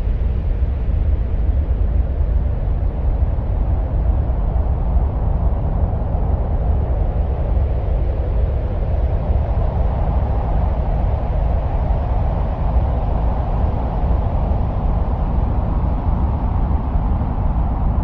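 Steady, deep wind-like rumble with a hiss above it, presented as the wind of Mars; the mid tones swell about halfway through.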